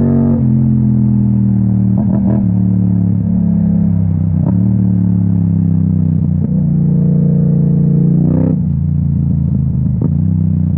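Yamaha MT-07's parallel-twin engine running through an Akrapovic exhaust while riding. The revs drop just after the start, hold steady, climb again for about two seconds and fall near the end. A few short sharp cracks come through along the way.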